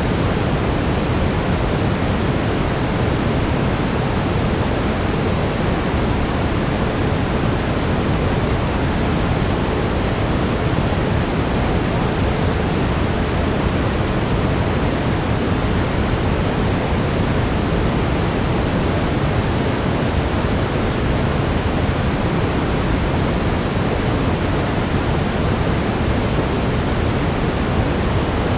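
Steady brown noise: an even, deep hiss, heavier in the low end, unchanging throughout.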